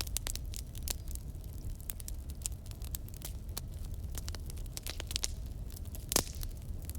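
Wood fire crackling in a fireplace: irregular sharp snaps and pops over a low steady rumble, with one louder pop about six seconds in.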